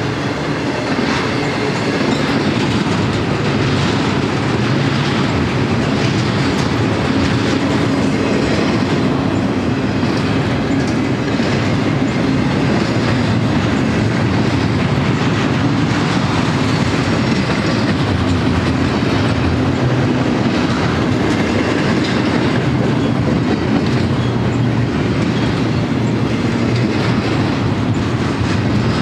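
Double-stack intermodal container train's well cars rolling past at speed: a steady, loud rumble and clatter of steel wheels on the rails.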